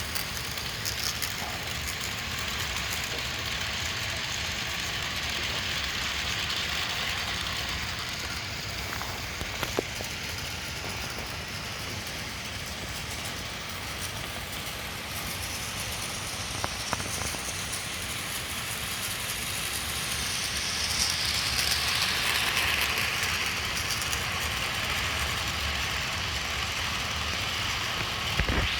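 HO scale model train, a DC-powered SD24 diesel locomotive pulling passenger cars, running on track: a steady rolling whir of motor and wheels that grows louder for a few seconds past the middle as the train comes near, with a couple of faint clicks.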